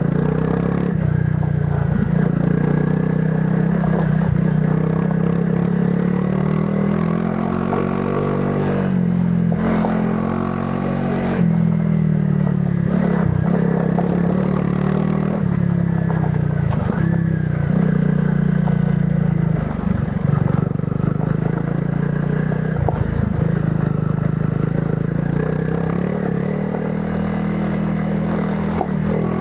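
Honda CRF300 Rally's single-cylinder four-stroke engine running through its stock exhaust while riding off-road. The engine note dips and picks up again several times as the throttle is eased and reopened, with clattering knocks from the bike over rough ground.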